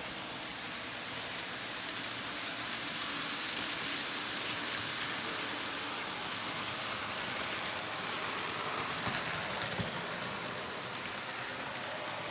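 N scale model train, an Athearn F59 diesel with five Bombardier coaches, rolling along the track: a steady whirring rattle of motor and wheels on rail that grows louder through the middle as the train passes closer, with a couple of sharper clicks near the end.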